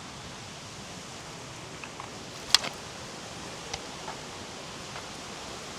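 Steady rush of flowing water from the stream and falls, with a few sharp clicks and crunches scattered through it, the loudest about halfway through.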